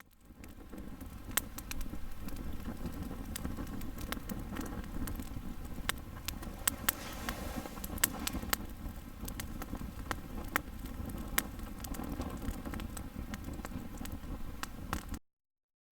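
Small wood fire crackling, with irregular sharp pops over a steady low rush of burning, cutting off abruptly near the end.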